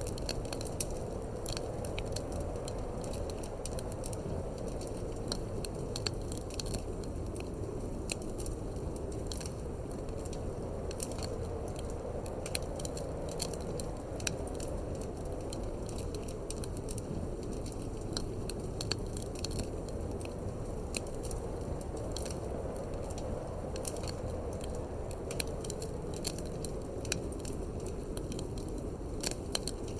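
Wood fire crackling in a fireplace, with frequent small irregular pops over a steady low rush of wind.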